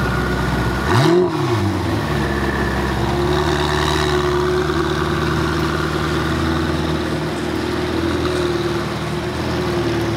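Ferrari V8 sports car idling, blipped once about a second in with a quick rev that rises and falls, then running steadily as the car pulls away at low speed.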